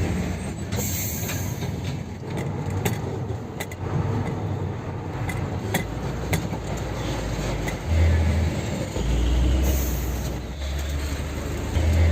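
Heavy dump truck running, a low rumble with louder surges and scattered clanks and knocks.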